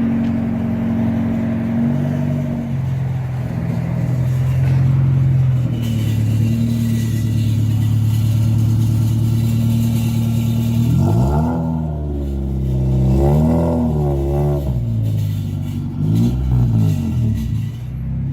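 Honda Del Sol's engine running through a loud aftermarket muffler, a steady drone that the owner calls terrible. Later it is revved up and back down three times, the exhaust note rising and falling each time. The owner blames the cheap eBay exhaust for the excess noise.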